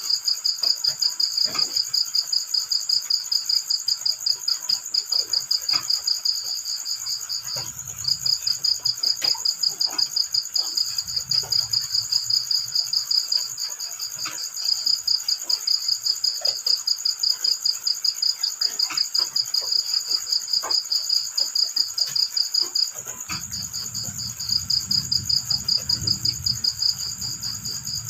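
Crickets chirping in long, rapid pulsed trills that break off briefly a few times, over a steady higher insect drone. Scattered faint ticks, typical of drizzle drops, fall throughout, and a low rumble comes and goes, strongest in the last few seconds.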